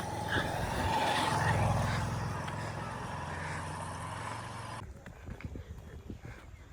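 A motor vehicle going past, with a low engine rumble that is loudest about a second and a half in and then fades. The sound cuts off abruptly near the end, leaving faint ticks.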